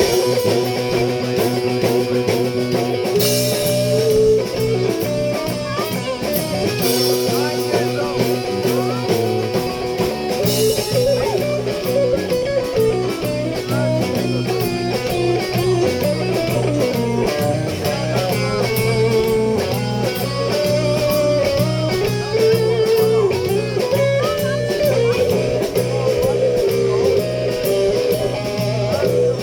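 Live blues-rock band playing an instrumental passage, an electric guitar line moving over steady bass, with a regular drum beat through the second half.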